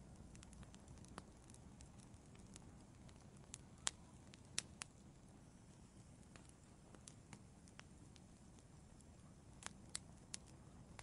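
Wood fire in an outdoor fireplace crackling: a low steady rumble with scattered sharp pops, the loudest about four seconds in and a small cluster near the end.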